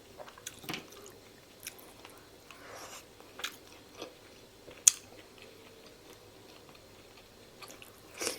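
A person chewing and biting into pork momos (dumplings) close to the microphone: scattered wet mouth clicks and smacks with quiet pauses between them, one sharp click about five seconds in.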